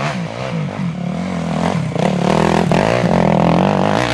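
Dirt bike engine revving, its pitch rising and falling over and over with the throttle, louder from about two seconds in.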